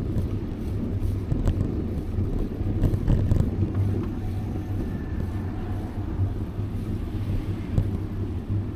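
Steady low wind rumble on the microphone with road noise from a moving bicycle, and a few faint clicks.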